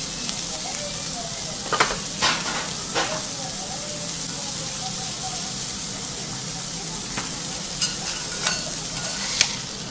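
Asparagus spears frying in oil on a teppanyaki griddle: a steady sizzle, with a handful of sharp clicks about two and three seconds in and again near the end.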